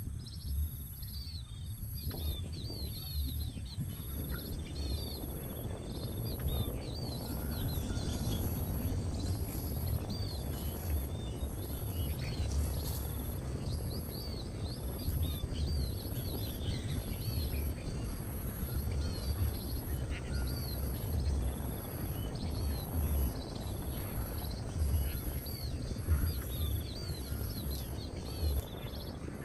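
Outdoor ambience: small birds chirping over and over, a high-pitched buzz pulsing about once a second, and a low rumble underneath.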